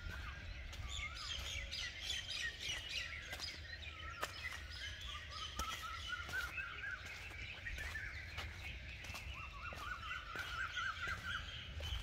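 Several birds chirping and singing at once in the trees, with one bird's fast, wavering warble running through the second half.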